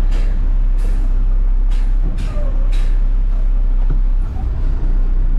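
Front-load garbage truck's engine running, with five short hisses of air in the first three seconds or so.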